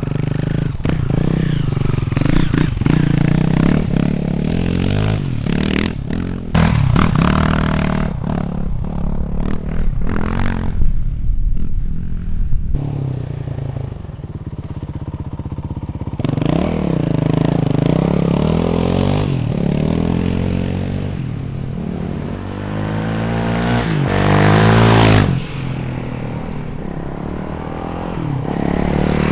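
Motorcycle engine running and revving up and down, loudest in a rising rev near the end, with knocks and rattles from the bike.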